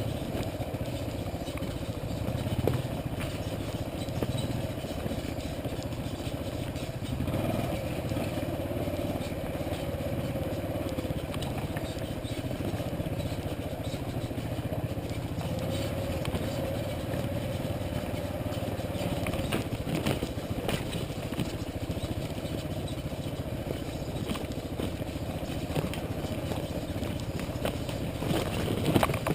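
Motorcycle engine running steadily at low speed, with a few sharp knocks and scrapes along the way.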